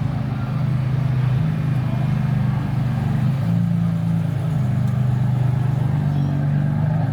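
Car engine running with a steady low drone that shifts pitch slightly a few times, like an engine idling and being lightly blipped as it pulls away.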